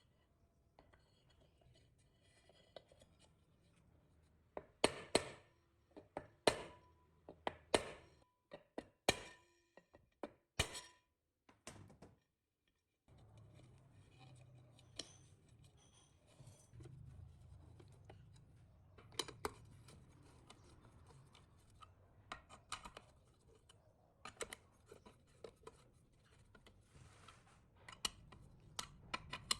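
Workshop handling sounds: a quick run of about a dozen sharp clicks and taps, then, after a brief dead silence, a low hum with scattered lighter taps.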